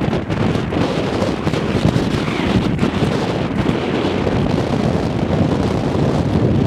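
Strong gusty wind buffeting the microphone: a loud, rumbling, fluctuating rush with no steady tone.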